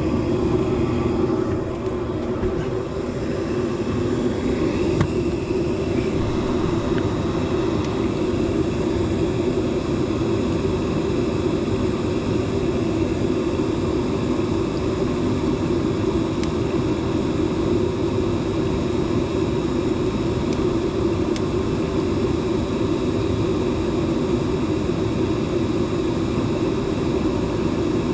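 Gas furnace running: a steady mechanical drone of the draft inducer motor and blower air. The inducer motor is drawing close to its overamp limit, which the technician takes as a sign it could fail any day.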